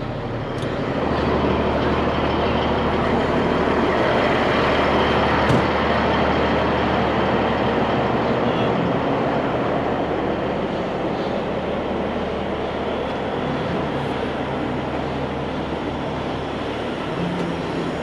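Heavy engine running steadily, picking up about a second in and easing off gradually later, with one short knock about five and a half seconds in.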